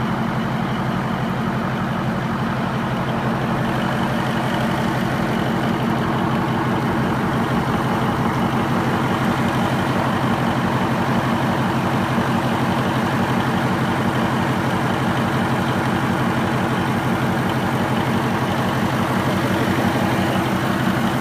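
Baudouin marine diesel engine running steadily at a constant, low speed, a deep even engine note with no revving.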